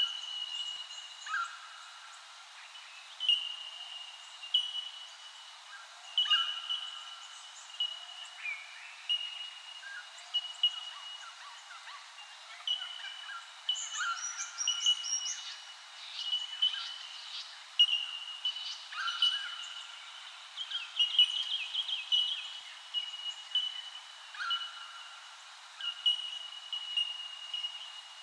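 Several wild birds calling together. One short note at a single pitch repeats every second or so throughout, with lower two-part calls every few seconds and a busier stretch of high twittering about halfway through.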